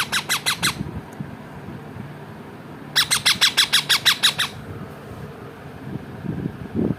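Baby parrot squawking in rapid trains of harsh calls, about ten a second. One burst ends just under a second in, and a second burst starts about three seconds in and lasts a second and a half.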